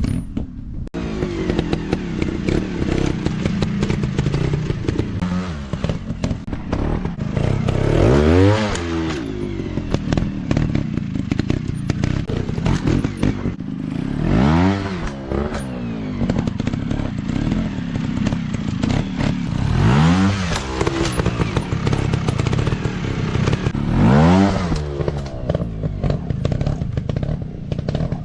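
Dirt bike engine running on a rough course, revved up hard and dropped back four times, with clattering and scraping between the revs.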